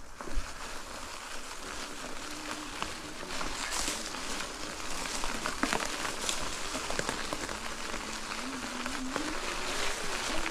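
Folding e-bike ridden over a rough, bumpy trail: tyres crackling and rattling over the ground, with the motor's faint whine rising and falling in pitch as the speed changes.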